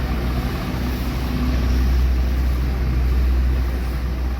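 Tractor engine running steadily under load with a deep, even hum and a broad mechanical rush, driving a spray pump.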